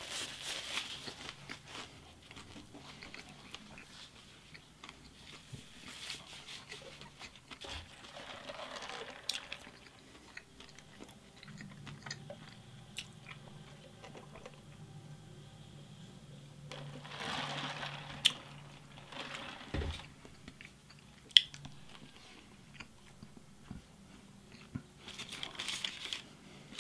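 Close-miked chewing and biting of a fast-food burger, with soft wet mouth sounds, a napkin rustling near the start and a couple of sharp clicks in the second half.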